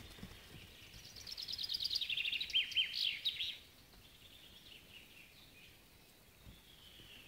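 A songbird sings one phrase: a quick run of high chirping notes falling in pitch, ending in a short flourish and lasting about two and a half seconds. A few fainter high notes follow.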